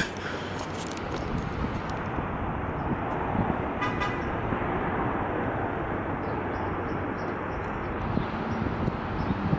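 Jet airliner coming in to land, its engines a steady, even rushing roar. A short click comes about four seconds in, and a low steady hum joins near the end.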